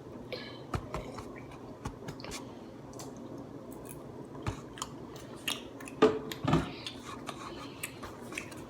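A person chewing and biting food close to the microphone: scattered small clicks and smacks, with a louder bite about six seconds in.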